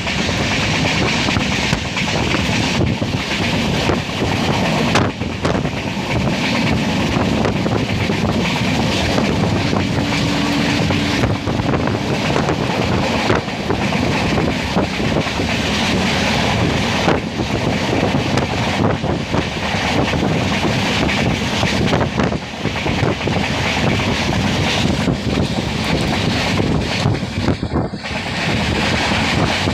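Express train running at speed, heard from on board: steady rumble and clatter of wheels on the rails with rushing wind buffeting the microphone.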